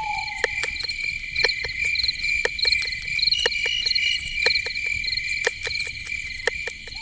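Night-forest insect chorus: crickets chirring steadily in a high, pulsing trill, with irregular sharp clicks scattered throughout. A short, slightly falling animal call ends about a second in.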